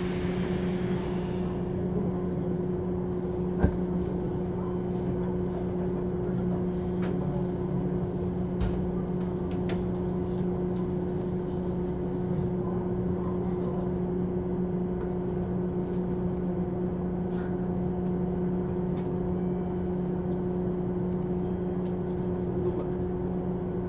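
JR East 185 series electric train running, heard from inside the passenger car: a steady rumble with a constant low hum, a hiss that fades in the first second or two, and one sharp click a few seconds in.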